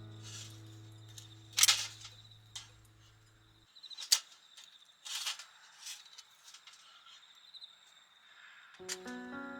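Campfire crackling, with sharp, irregular pops from burning firewood over a faint steady insect trill. A strummed acoustic guitar chord fades out early, and a new one begins near the end.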